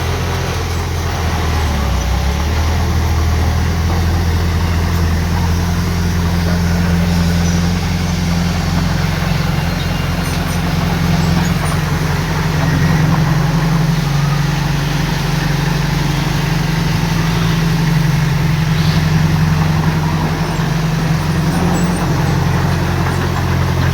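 Heavy diesel engine of earthmoving equipment running steadily: a loud, low drone whose pitch shifts a little now and then.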